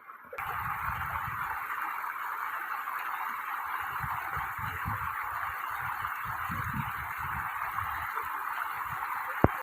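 River water flowing, a steady rushing hiss, with scattered low rumbles on the microphone. A single sharp click comes just before it cuts off.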